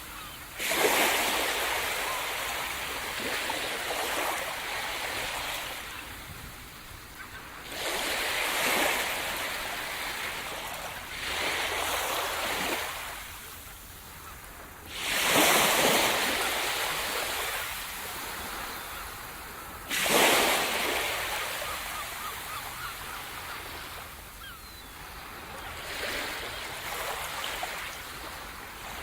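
Sea surf: waves breaking on the shore one after another, each arriving as a sudden rush of water that swells and then slowly washes out, every four to six seconds.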